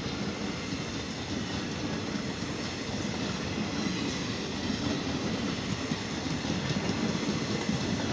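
Passenger train coaches rolling past, a steady noise of steel wheels running on the rails, growing slightly louder in the second half.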